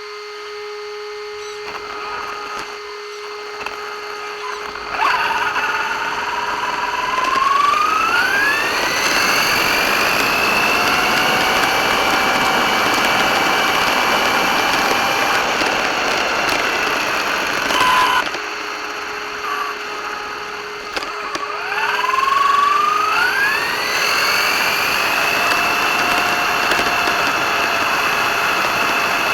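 RC car's electric motor whining up in pitch as it accelerates, then holding a steady high whine at speed. It happens twice: once about five seconds in, and again after a brief slow-down a little past the middle.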